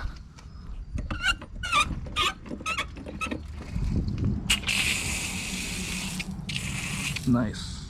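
A run of light clicks and knocks as a spray gun is handled on a garden hose, then, about four and a half seconds in, the spray gun opens and water hisses out in a steady spray, stopping briefly near six seconds before spraying again.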